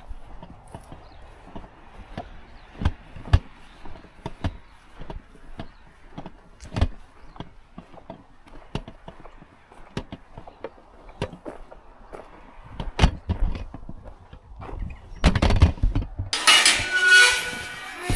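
Footsteps on the forest floor, one or two irregular steps a second. Near the end a much louder squealing sound with several pitches starts.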